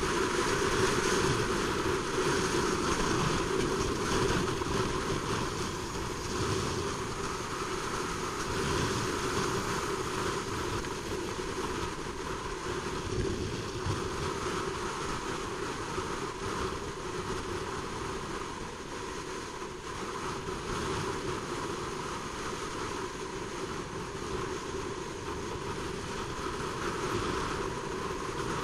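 Honda CBR600RR under way: steady wind rushing over the microphone, with the bike's inline-four engine running underneath. The level eases a little past the middle and rises again near the end.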